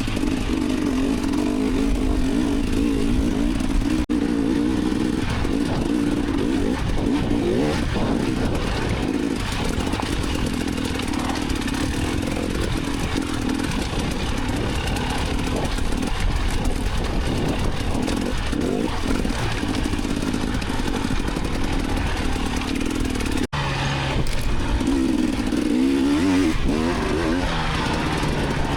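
Off-road dirt bike engine running and revving up and down under changing throttle while being ridden, with two brief dropouts in the sound, about four seconds in and about three quarters of the way through.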